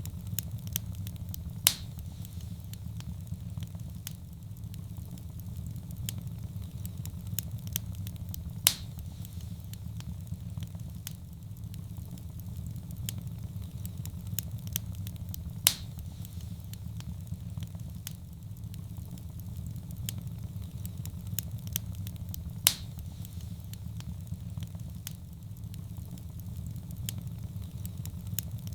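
Wood fire in a fireplace crackling over a steady low rumble, with frequent small crackles. Four loud pops come evenly about seven seconds apart.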